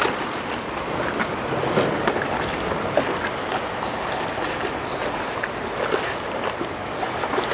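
Waterfront ambience: a steady wash of boat traffic and water, with scattered small knocks and clicks.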